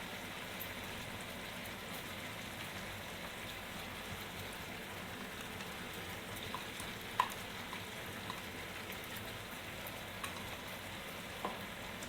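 Chicken in masala and fried-onion paste frying in a pan: a faint, steady sizzle with a few small pops or clicks.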